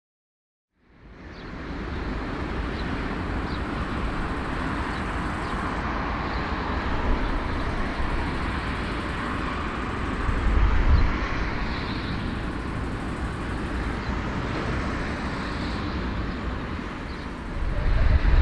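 Passenger jet airliner noise: a steady rumble and rushing hiss that starts about a second in, swells briefly about ten seconds in and grows louder near the end.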